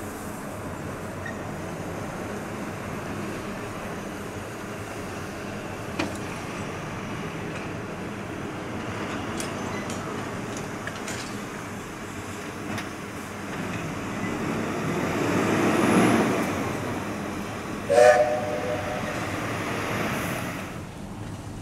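A train moving on a heritage railway with a steady running noise that swells to a peak about three-quarters of the way through. Shortly after the peak comes a sudden, loud, short blast with a steady pitch, like a brief whistle toot.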